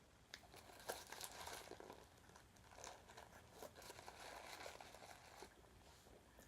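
Faint crinkling and crackling of paper food wrapping being handled, in two stretches: about a second in, and again from about three to five seconds in.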